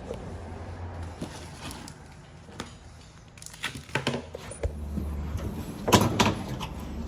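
Clicks and knocks of hands fitting an ignition control board into a gas furnace, loudest in a clatter about six seconds in, over a low steady hum.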